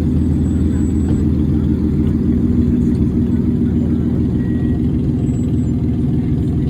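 A car engine running steadily at low revs, with a deep, even exhaust rumble.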